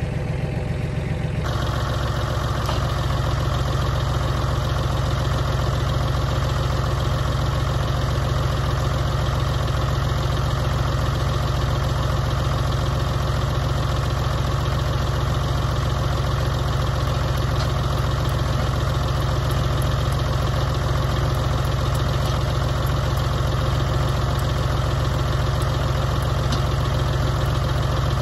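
Tractor engine running steadily under load, driving a three-point post hole auger as it drills a fence post hole.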